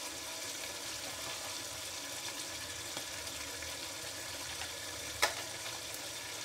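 Chicken, tomato and powdered spices frying in oil in a pot: a steady sizzle. One light click about five seconds in.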